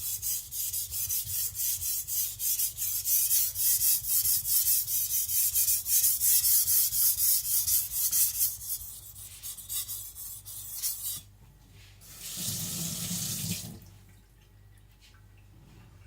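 A Tojiro shirogami nakiri's carbon-steel edge being rubbed back and forth on a wet Naniwa Professional 1000-grit whetstone, a quick, even rasp of strokes that dies away about nine to eleven seconds in. About a second later comes a short rush of water lasting about a second and a half.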